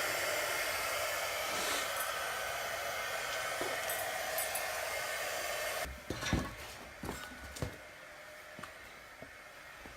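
Handheld hot-air blower running steadily with a faint motor whine, warming the adhesive tape of a carbon fiber spoiler so it sticks better; it is switched off about six seconds in, followed by a few light knocks and clicks.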